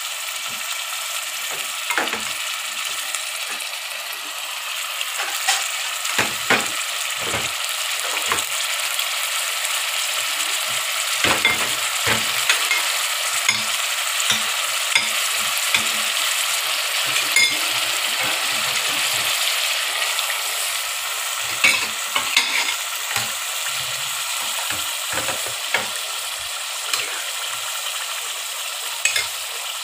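Chicken pieces sizzling in hot oil in a kadhai, a steady frying hiss. A spatula scrapes and knocks against the pan now and then as the meat is stirred.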